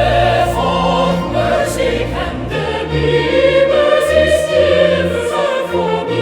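A choir singing a hymn with orchestral accompaniment, sustained chords over a moving bass line.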